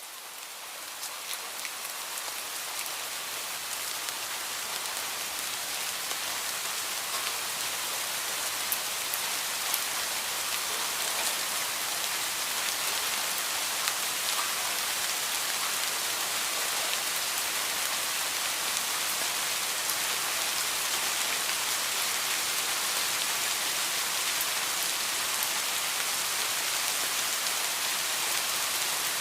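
Heavy rain falling steadily, with scattered sharp drop ticks; it fades in over the first few seconds, then holds at a constant level.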